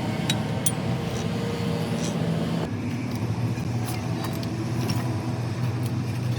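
An engine running steadily, its pitch dropping a little about two and a half seconds in, with a few sharp metallic clicks.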